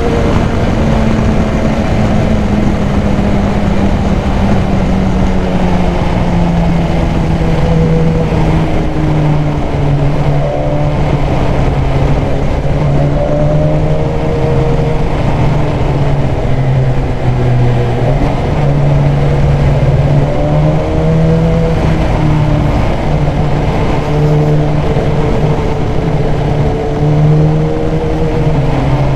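BMW S1000XR's inline-four engine running under way, fitted with a K&N high-flow air filter, with steady wind rush. The revs ease down over the first several seconds, then hold fairly steady with small rises and falls.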